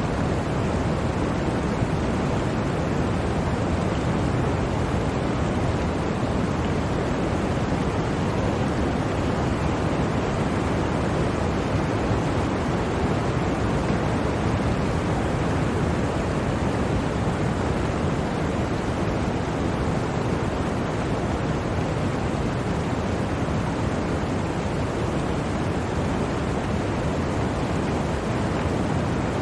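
Blizzard wind, a steady, unbroken rushing noise that stays even throughout, with no separate gusts or other sounds.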